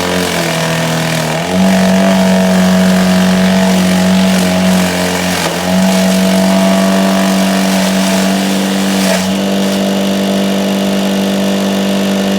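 Lawn mower engine running at a steady high speed, its pitch sagging briefly twice, then settling a little lower about nine seconds in.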